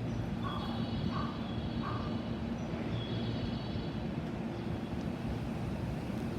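Steady low hum and rumble of a JR West 225-5000 series train. Short chirps repeat three times, about 0.7 s apart, in the first two seconds.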